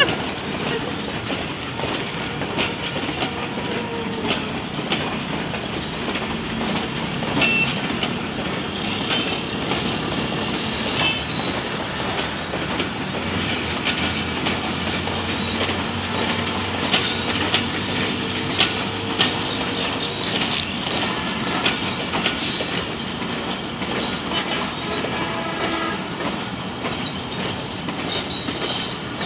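Pakistan Railways passenger coaches rolling past on the rails: a steady rumble with wheels clicking over rail joints and points, and a few brief high-pitched wheel squeals.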